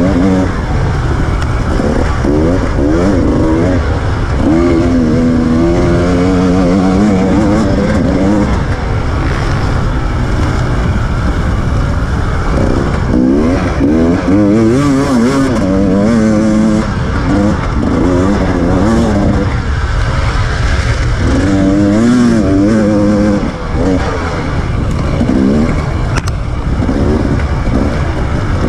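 KTM EXC 300 TPI single-cylinder two-stroke enduro engine, heard on board while ridden hard off-road. Its pitch rises and falls over and over as the throttle is opened and closed, with a brief drop about 23 seconds in.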